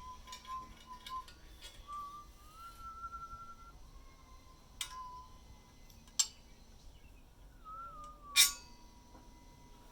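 A person whistling a slow tune, mostly long held notes with a slight warble. Three sharp clicks or knocks cut in during the second half, the loudest near the end.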